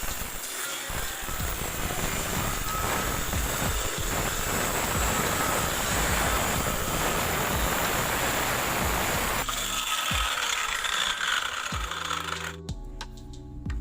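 A power tool runs with a dense mechanical rattle. The sound changes about ten seconds in and stops shortly before the end.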